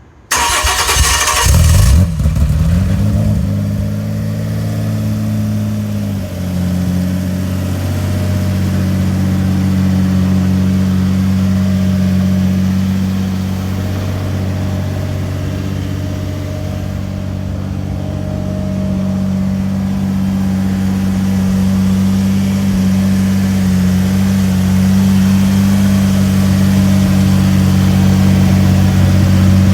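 Renault Clio Trophy engine cold-started: a short burst of cranking, then it catches about two seconds in with a brief rev and settles into a steady fast cold idle about six seconds in.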